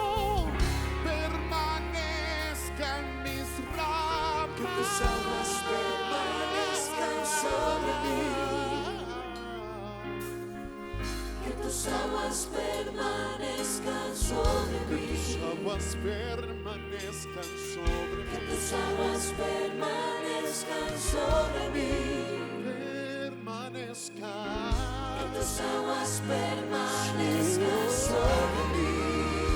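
Worship music: a choir singing a slow gospel song over sustained bass chords and a steady beat.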